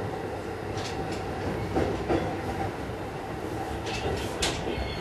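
Cabin noise inside a JR East E233-5000 series electric train running slowly, at about 25 km/h under a strong-wind speed restriction: a steady rumble of wheels on rail with a few short clicks and knocks.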